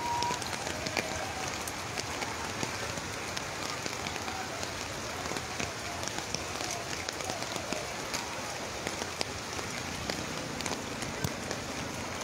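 Steady rain: an even hiss dotted with many small, sharp drop taps.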